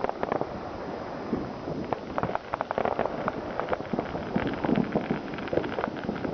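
Fireworks and firecrackers going off, a dense, irregular stream of overlapping pops and bangs with no pause.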